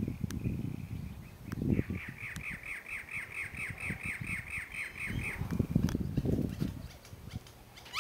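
A bird calling in a rapid, even series of about fourteen sharp squawking notes, roughly four a second, from about two seconds in to about five seconds in. Another burst of calls starts right at the end, over a low, gusty rumble.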